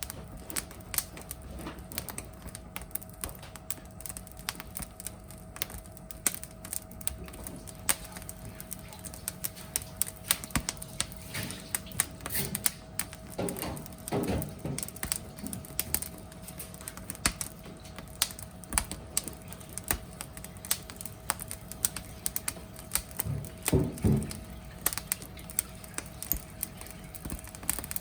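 Burning firewood crackling, with dense irregular sharp pops and snaps. Twice, about halfway through and again near the end, there is a brief louder, lower flurry.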